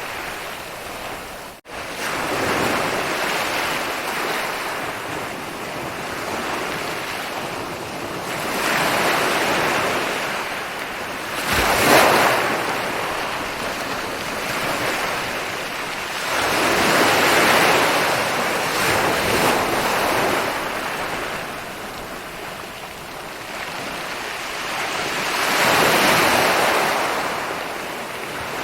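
Ocean waves breaking and washing onto a beach, the surf swelling and fading every several seconds. The sound cuts out briefly about a second and a half in.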